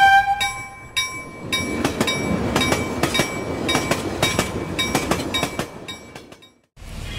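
A passing train, its wheels clattering over the rail joints about four times a second, fading away near the end. A ringing chime note dies away in the first moment.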